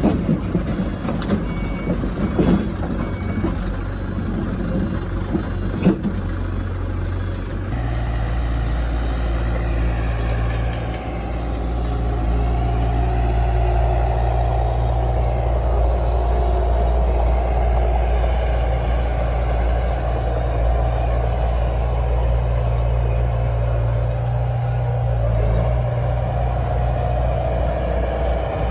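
Heavy diesel earthmoving machinery working: clanks and knocks over a running engine, then, after an abrupt cut about eight seconds in, a steady low diesel engine drone with a held higher tone above it.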